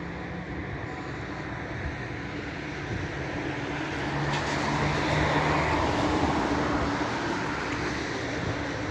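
Steady low droning hum with a wash of noise over it, swelling louder for a few seconds midway before easing back.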